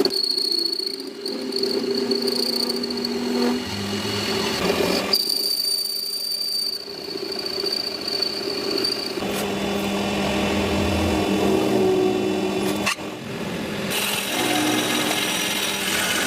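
Workshop power tools running steadily during metal gear repair, with the sound changing abruptly several times as one tool gives way to another.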